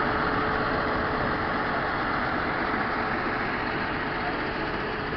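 John Deere 7930's 6.8-litre six-cylinder diesel engine running steadily, with a thin steady whine over it. The sound fades gradually, and the whine stops near the end.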